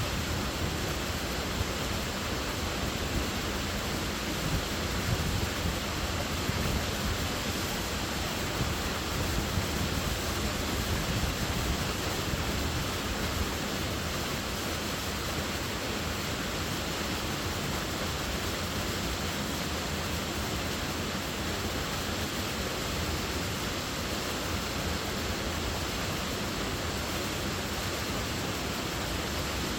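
Waterfall: a steady rush of falling water, with slight surges in the first half.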